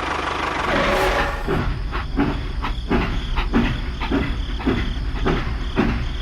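Engine chugging in an even rhythm, about two beats a second, after a steady hiss in the first second or so.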